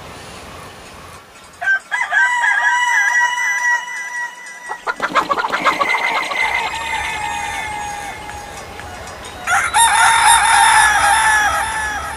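Roosters crowing three times. The first long crow comes about two seconds in. The second starts with a rapid stuttering rattle and trails off. The third comes near the end.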